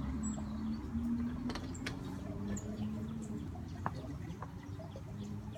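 Backyard birdsong ambience: a few short, high bird chirps in the first three seconds over a steady low hum and wash of background noise.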